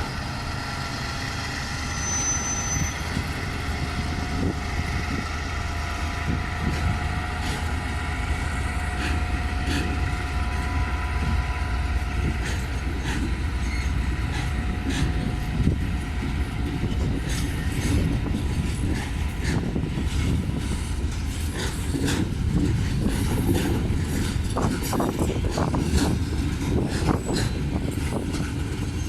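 Train rumbling along with steady, faint squealing tones in the first half that fade out about halfway through, then sharp clicks, more and more of them toward the end, as its wheels run over rail joints.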